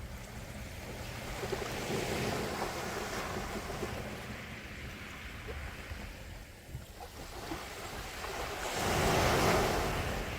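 Gentle sea waves washing on the shore: one swell rising about two seconds in and fading, then a louder wave breaking and rushing in near the end.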